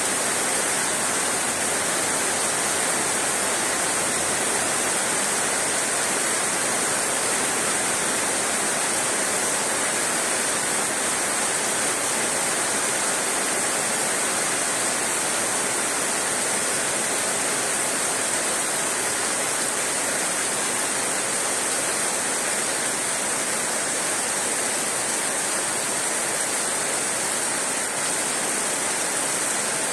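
Heavy rain falling on dense leafy shrubs, a steady, even hiss throughout.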